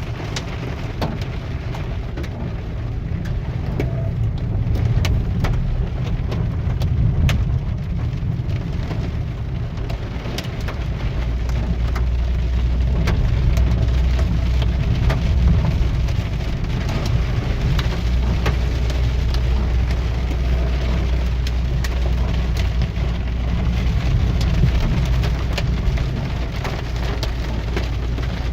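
Rain hitting a car as it drives, many separate drops ticking against it over a low engine and road rumble. The rumble becomes a steadier, deeper hum about ten seconds in.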